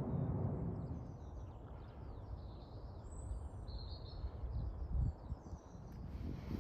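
Wind buffeting the microphone in gusts, a low rumble that swells at the start and again about five seconds in, with small birds chirping in the background.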